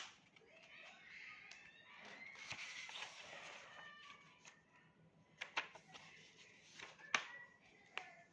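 A sheet of plain A4 paper being handled and folded, rustling for the first few seconds, then a few sharp crackles as the folds are creased down.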